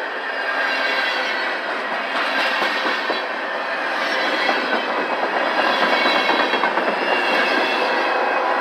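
Freight train cars rolling past, steel wheels clicking over the rail joints in a steady, continuous clatter.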